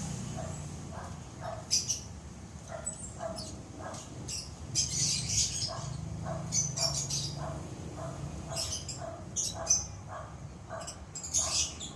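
Pet lovebirds chirping and chattering in many short high-pitched bursts, with a quick run of shorter, lower, evenly spaced notes underneath.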